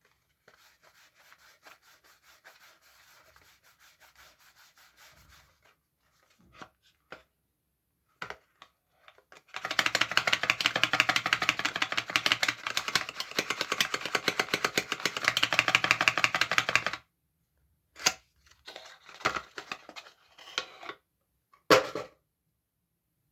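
Soap being unpacked by hand: fast rubbing and scratching of the wrapping, faint at first, then a long loud stretch of rapid strokes in the middle, followed by a few short knocks and rustles near the end.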